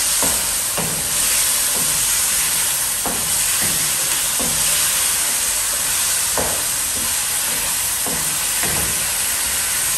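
Chicken pieces being browned on high heat in a karahi, a steady sizzling hiss of frying. A wooden spatula stirs them, with occasional short scrapes and knocks against the pan.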